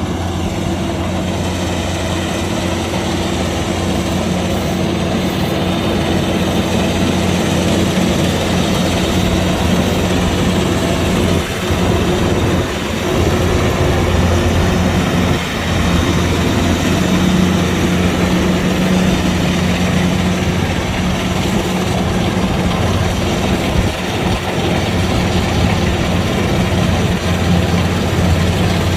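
Kubota DC-105X combine harvester's diesel engine running steadily under harvesting load, with a strong low hum and a few brief dips in loudness.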